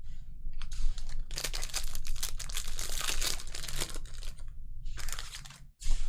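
Plastic trading-card pack wrapper crinkling and tearing as it is handled and opened, in one long stretch of crackling and then two short bursts.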